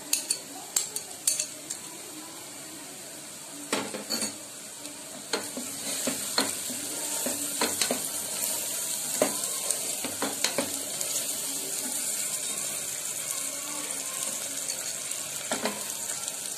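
Onions frying in oil in an aluminium pressure cooker, sizzling, while a wooden spatula stirs them and knocks against the pot's sides. The sizzle gets louder about five seconds in.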